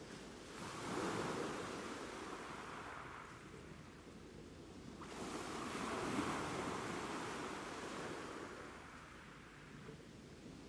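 Ocean waves washing onto the shore: one wave surges about half a second in and another about five seconds in, each swelling and then fading back.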